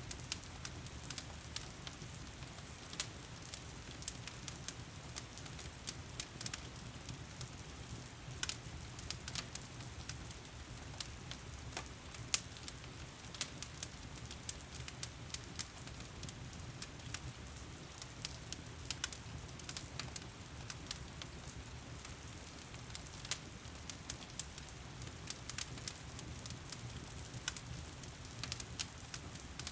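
Fireplace crackling, with frequent irregular sharp pops, over the steady hiss of heavy rain and a low steady rumble underneath.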